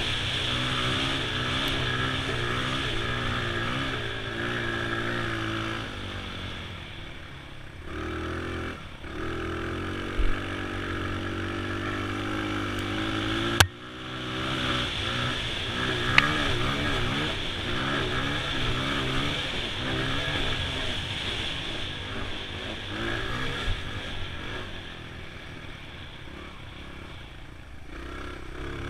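2002 Honda XR100's small single-cylinder four-stroke engine under way on a trail, its pitch rising and falling as the throttle is opened and closed. There is one sharp knock about 14 seconds in.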